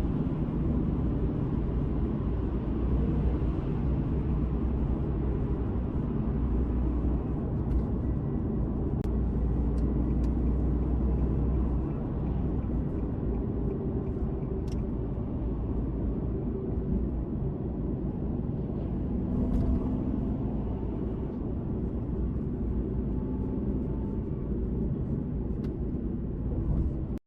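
Nissan Fairlady Z (Z34) 3.7-litre V6 running steadily through an HKS aftermarket muffler, a deep, even exhaust rumble.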